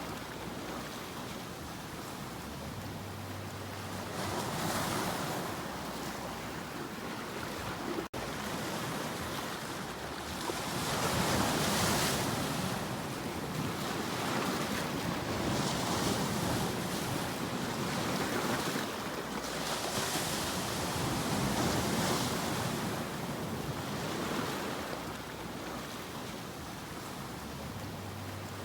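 Sea waves breaking and washing in, the surf swelling and ebbing every few seconds, with a momentary cut in the sound about eight seconds in.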